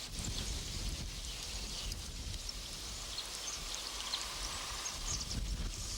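Outdoor riverside ambience: a steady hiss of flowing river water, with scattered short high chirps and a low rumble of wind on the microphone.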